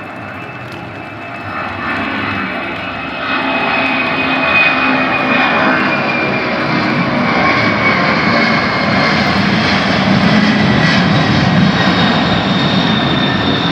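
Airplane engines passing close. The roar grows louder over the first few seconds and then holds, with a high whine that slowly falls in pitch.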